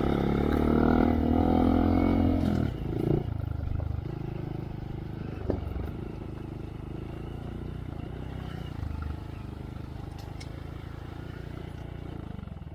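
Honda Monkey's 124 cc single-cylinder engine through a Yoshimura RS3 slip-on exhaust, pulling hard on the throttle for the first two or three seconds. It then eases off to a lower, steadier run.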